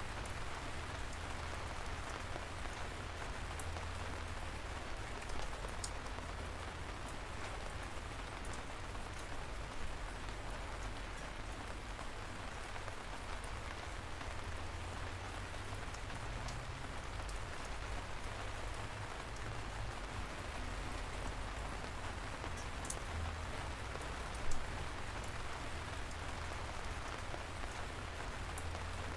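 Light rain falling steadily: an even hiss with scattered sharper drop taps over a low rumble, and one louder tap about three-quarters of the way through.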